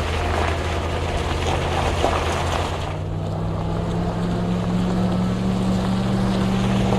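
Motorboat engine running steadily under a rush of water and wind. About three seconds in, the engine speeds up and its hum rises in pitch, then holds.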